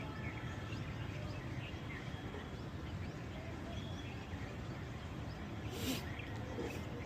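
Birds chirping in scattered short calls over a steady low rumble of outdoor background noise, with a brief hiss about six seconds in.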